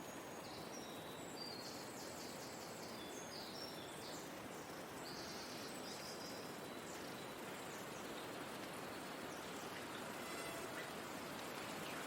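Forest ambience: a steady soft hiss of moving air or water with high, thin bird chirps in quick short phrases through the first half, then a brief rapid twitter about ten seconds in.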